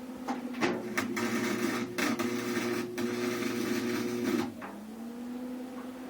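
Electric welding arc crackling and buzzing in a run of about four seconds on thin car-body sheet metal, starting about half a second in, with a brief break partway, and stopping near the end.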